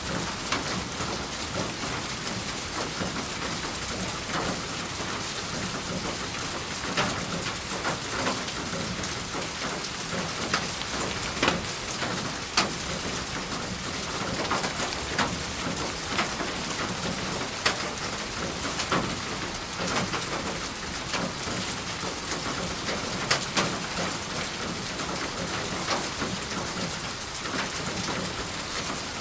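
Steady rain falling, with a dense hiss and many separate drops striking close by as sharp ticks scattered throughout.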